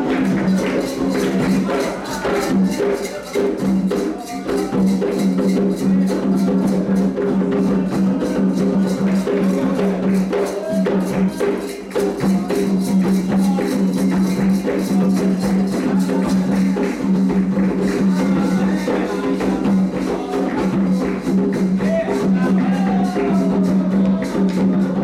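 Candomblé ritual percussion: atabaque hand drums with rattles, playing a fast, dense rhythm.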